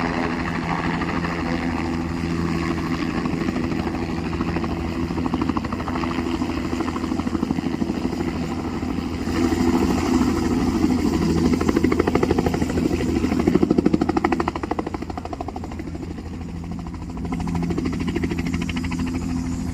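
Helicopter engine and rotor running steadily with a fast, even beat, growing louder for a few seconds around the middle.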